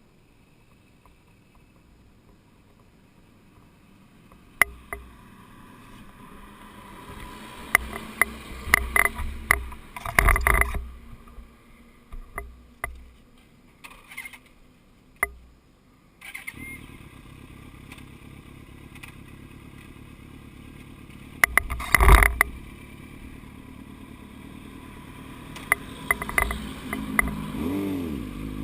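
Yamaha YZF-R1 inline-four motorcycle engine running at a steady low level, with scattered knocks and clatter from handling the bike, and revving up near the end.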